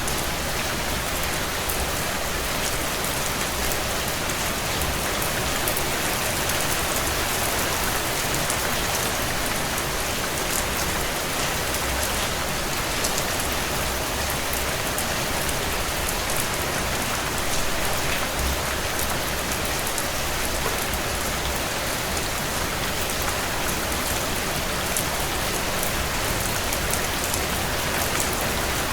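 Heavy rain drumming steadily on a tin roof, a dense, even hiss of rain with countless fine drop ticks, unchanging throughout.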